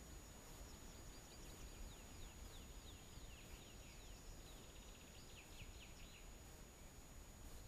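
Faint songbird song in quick runs of short descending notes, over a low hiss and a steady thin high tone.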